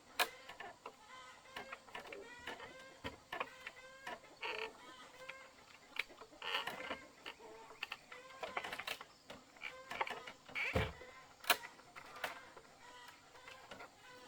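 Chickens clucking in a run of short calls, mixed with scattered sharp taps.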